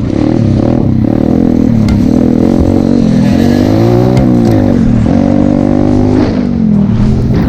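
Pit bike engine running and revving, its pitch rising and falling, with a climb to a peak about four seconds in before it drops back.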